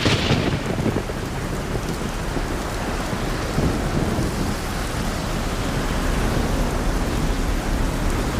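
Thunder cracks right at the start and rolls off into a low rumble over about a second, over steady light rain.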